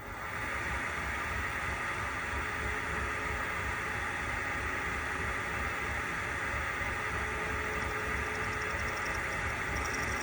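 Small metal lathe starting up and then running steadily, turning an engine cylinder cap for a very gentle facing cut with a high-speed steel diamond tool.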